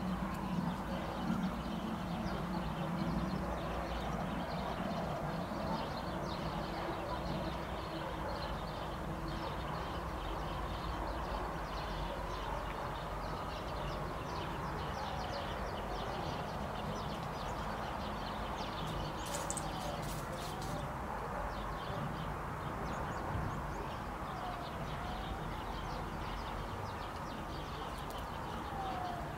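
Many birds chirping and calling, with short calls and repeated rising-and-falling notes over a steady low background noise.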